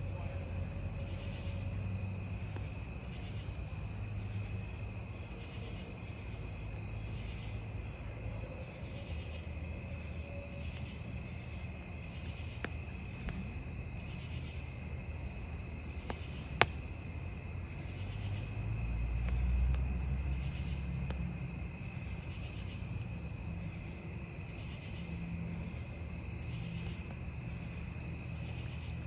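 Crickets chirring steadily in several overlapping voices over a low campfire rumble. A single sharp pop from the burning wood comes a little past halfway, and the low rumble swells briefly soon after.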